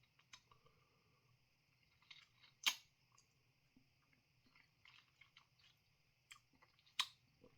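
Quiet, sparse crunches and clicks of someone chewing a crisp freeze-dried ice cream sandwich, with the loudest crunch about two and a half seconds in and another near the end.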